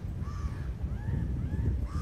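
Birds calling in a rapid series of short, arched calls, two or three a second, over a steady low rumble.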